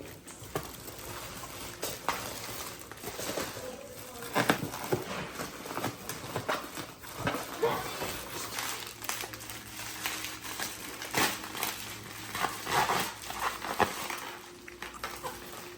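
A shipping box being unpacked by hand: packing material rustling and crinkling, with irregular scrapes and light knocks.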